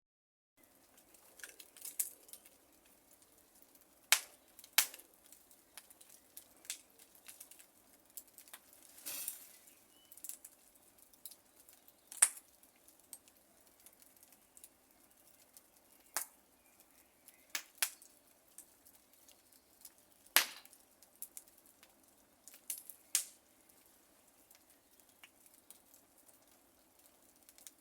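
Wood fire crackling: irregular sharp pops and snaps, a few much louder than the rest, over a faint low background, with a short hissing burst about nine seconds in.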